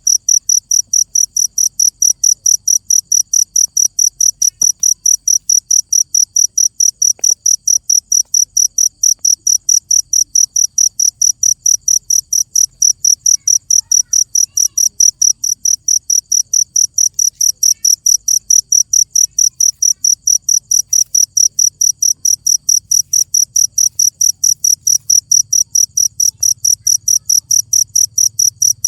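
Cricket chirping steadily and loudly, a high-pitched chirp repeated evenly about four times a second.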